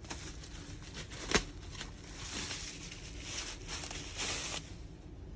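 Diorama packaging being handled: one sharp knock about a second and a half in, then a few seconds of rustling and crinkling.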